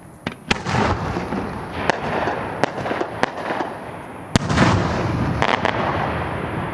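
Aerial fireworks shells bursting: a string of sharp bangs roughly a second apart, the sharpest about four seconds in, each followed by a rush of noise and rumbling echo.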